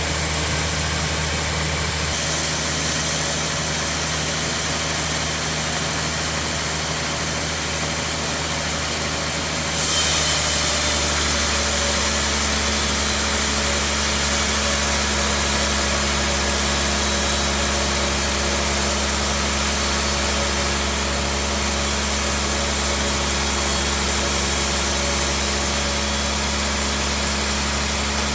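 Sawmill bandsaw machinery running with a steady engine-like drone. About ten seconds in, the sound changes: a hiss rises and a new steady tone joins.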